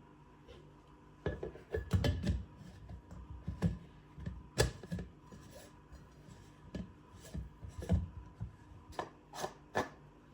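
Irregular clicks, knocks and rubbing of objects being handled, a dozen or so sharp strokes scattered at uneven intervals.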